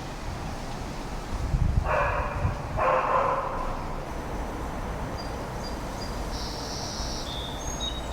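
A dog barks twice, about two and three seconds in, over a steady low rumble of distant traffic. In the second half a bird sings a string of short, high, clear notes.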